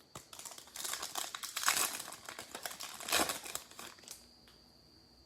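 Trading card pack wrapper crinkling and rustling as it is handled, in quick irregular crackles, with the loudest crinkles about halfway through and a second burst about three seconds in; it dies away shortly after four seconds.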